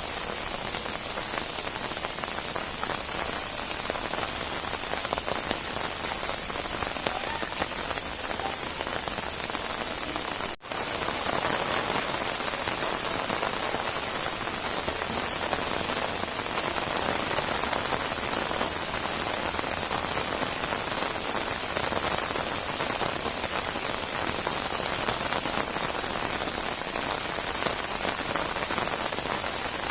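Rainstorm: steady rain falling, a dense, even hiss of many drops. About ten seconds in, the sound cuts out for an instant, then the rain carries on slightly louder.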